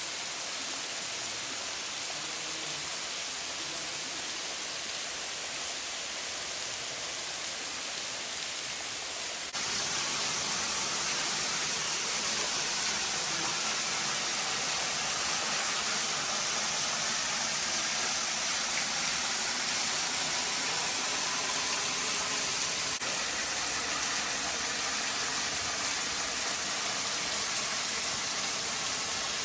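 Steady rush of a waterfall, an even hiss of falling water. It jumps suddenly louder about ten seconds in and shifts again a little after twenty seconds.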